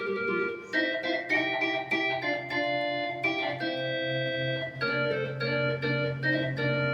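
Yamaha YC-20 combo organ playing a melodic solo with chords on its 16' and 8' voices, with no vibrato. Its percussion, set to about half, gives each note a sharp, marimba-like attack. A low note is held underneath from about a second in.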